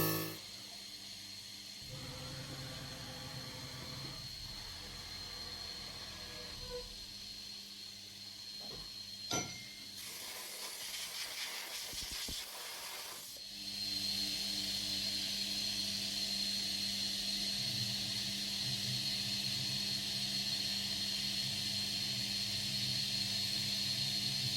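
A milling machine running: a steady hiss with a thin high whine and a low hum. It steps up louder about 13 seconds in, and a short sharp sound comes about 9 seconds in.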